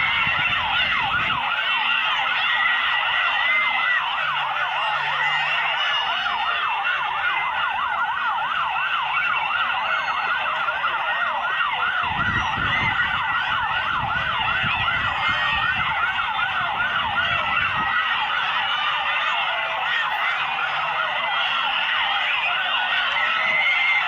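Several vehicle sirens sounding at once in a fast yelp, their rapid rising-and-falling wails overlapping at different pitches. A brief low rumble comes about halfway through.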